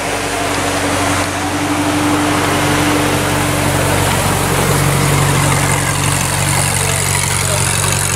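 Ferrari 458 Italia's 4.5-litre naturally aspirated V8 idling steadily, with street noise.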